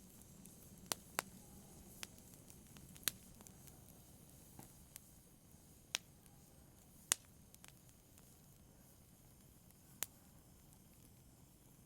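Fire crackling in a fireplace: sharp, irregularly spaced pops and snaps, about ten of them and thinning out toward the end, over a faint low hiss.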